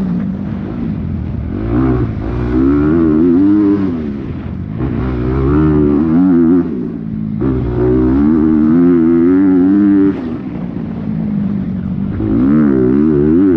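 Dirt bike engine ridden hard, its pitch rising and falling constantly as the throttle is opened and rolled off, with brief dips in power a few times where the throttle is chopped.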